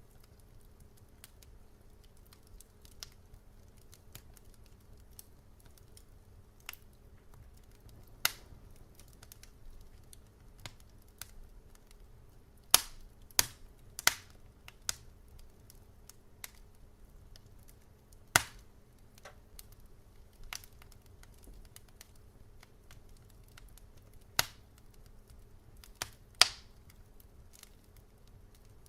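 Wood fire crackling: irregular sharp snaps and pops, with a cluster of loud pops about halfway through and a few more near the end, over a faint steady low hum.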